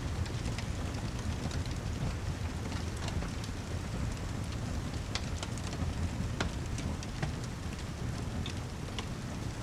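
Steady heavy rain with a low rumble underneath and scattered sharp ticks through it.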